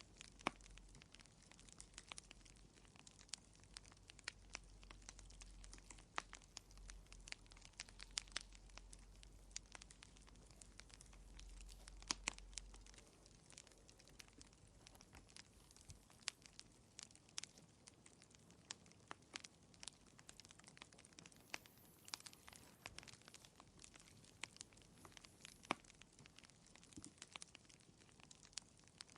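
Wood fire in a fireplace crackling, with irregular sharp pops and snaps, a few louder than the rest, over a faint hiss. A low hum under it stops about halfway through.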